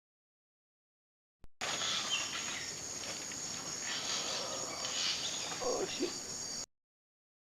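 Silent at first, then about five seconds of rainforest ambience: a steady high insect drone with scattered bird calls, cutting off abruptly.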